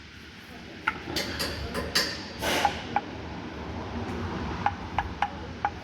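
Scattered light clicks and knocks, with a brief scrape a little before the middle, over a steady low workshop rumble: a removed propeller shaft being handled and its joints worked by hand.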